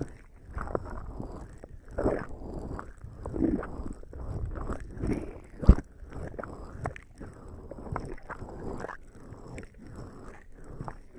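Bare skin slick with lubricating jelly rubbing and squishing against a binaural microphone's ears, in uneven swells, with one sharp bump against the mic a little past halfway.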